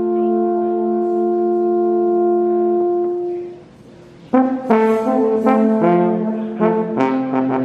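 Live brass band music: a chord of several brass notes is held and fades out about three and a half seconds in, then after a short break the band starts a lively passage of quick notes.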